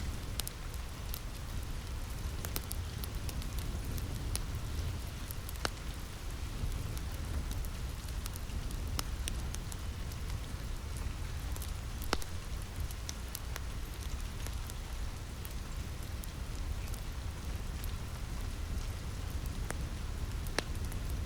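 Steady rain falling on a roof, a constant hiss over a low rumble, mixed with the irregular sharp pops and crackles of a wood fire in a fireplace.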